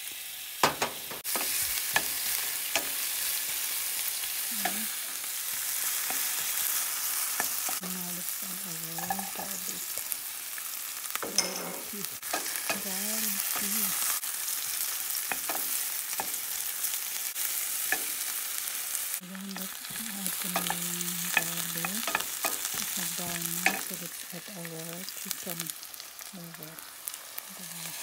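Sliced onions and garlic sizzling in hot olive oil in a stainless steel pot. A wooden spatula stirs them, knocking and scraping against the pan again and again.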